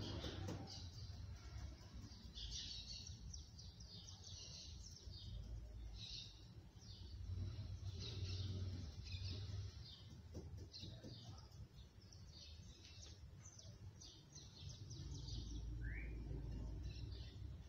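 Birds chirping, with many short high twittering notes repeated throughout, over a low steady hum.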